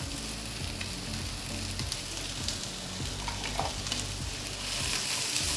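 Chopped shallots and onion sizzling in hot oil in a pan, a steady hiss with scattered small pops, just after the onion has gone in to wilt.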